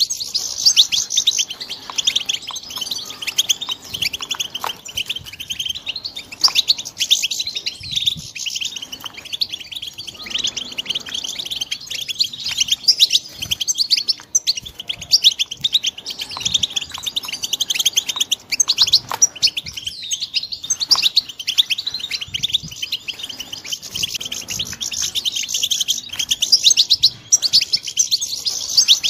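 Young European goldfinches twittering and chirping in a fast, continuous, high-pitched stream of trills and chirps.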